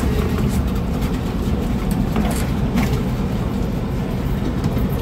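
Pilot boat's engine running steadily while under way, a dense low drone with a few faint brief hissing splashes over it.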